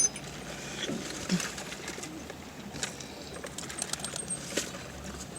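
A bird cooing in a few short, low calls, with scattered light clicks throughout.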